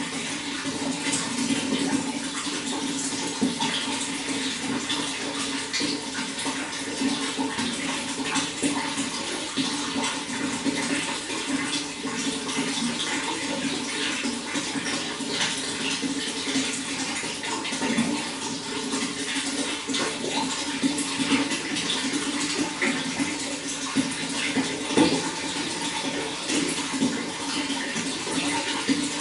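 Running water flowing steadily, a continuous splashing rush with many small splashes in it.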